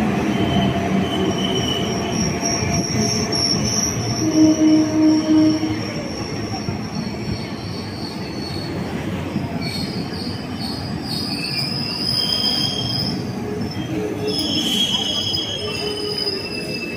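Express train's passenger coaches rolling slowly past, with a steady rumble and high-pitched wheel squeal that comes and goes. A louder, pulsing passage comes about four seconds in.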